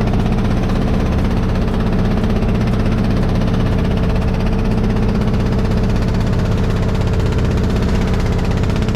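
An engine running steadily at a constant speed: a loud, even low drone with a steady hum above it.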